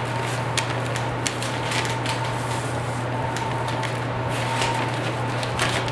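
Steady low hum throughout, with scattered light rustles and clicks from the vinyl seat cover being handled and pressed onto the glued seat pan.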